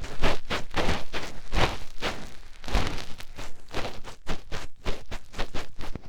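A fingertip digging and rubbing deep in an ear, right at the microphone, in ASMR finger ear-cleaning: a quick, uneven run of scratchy strokes, several a second.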